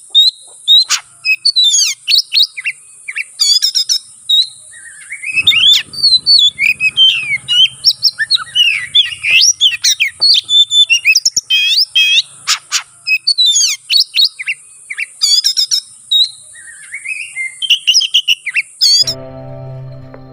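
Oriental magpie-robin (kacer) singing a fast, continuous, varied fighting song of rapid chirps and whistles over a steady high hiss. About a second before the end the song cuts off and soft mallet-like music begins.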